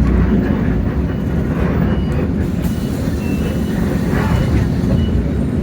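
Hino J08E-VN six-cylinder diesel engine of a city bus running steadily, heard from inside the bus along with a low cabin and road rumble.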